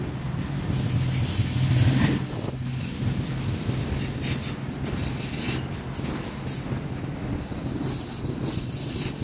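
Norfolk Southern freight cars rolling past, wheels clicking irregularly over the rails over a steady low hum.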